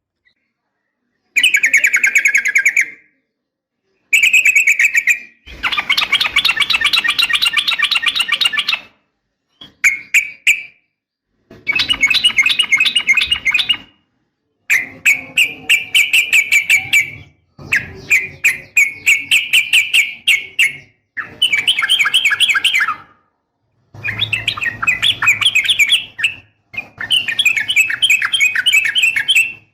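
Yellow-vented bulbul (trucukan) singing: about ten bursts of rapid, bubbly chattering notes, each one to three seconds long, with short gaps between them. The uploader presents it as a female calling a male.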